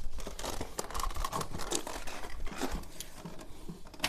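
Hands working on motorcycle engine parts: a run of short, irregular scratchy rustles, scrapes and light clicks.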